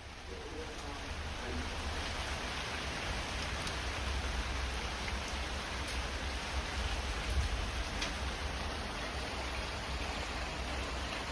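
Heavy rain falling steadily, fading in at the start, with a low rumble underneath.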